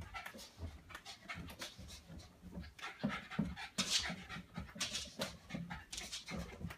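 A dog panting in a steady run of short, quick breaths.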